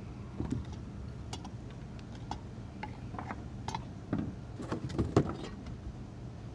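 Small metal clicks and knocks as parts are pried off an old bath fan with a flathead screwdriver, scattered at first and then a quick cluster about four to five seconds in, the loudest knock near the end of that cluster.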